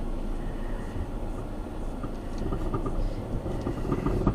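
Car towing a caravan, driving slowly, heard from inside the cabin: a steady rumble of engine and road, with faint squeaks from the caravan, which squeaks more the slower it goes.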